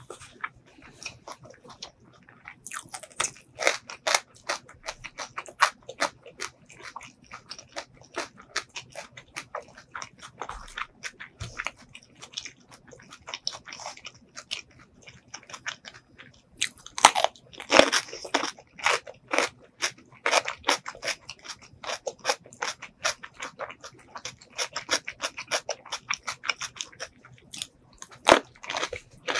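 Close-miked mouth chewing and crunching of food, a steady run of crunchy bites and chews. The loudest crunches come a little past halfway through.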